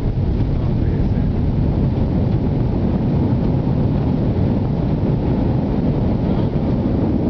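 Airliner cabin noise after landing: a steady, loud low rumble of the jet engines and airframe while the plane rolls on the ground.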